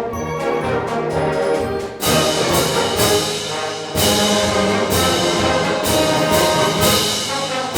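Live school wind orchestra playing a march, brass and woodwinds over a steady percussion beat; the band gets louder about two seconds in and again about four seconds in.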